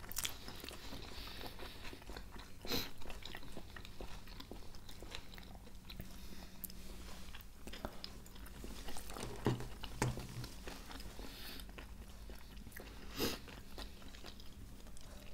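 Close-miked chewing and mouth sounds of people eating a soft crab-stick salad, fairly quiet, with a few sharper clicks and smacks scattered through.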